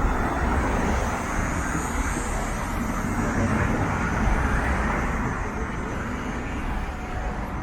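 Downtown street traffic: a steady rumble of motor vehicles running past, swelling a little around the middle.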